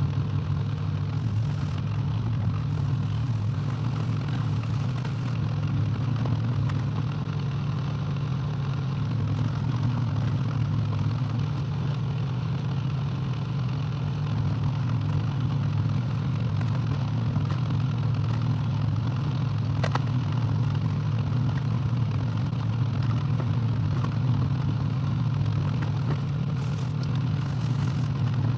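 Excavator engine running steadily with an even low hum.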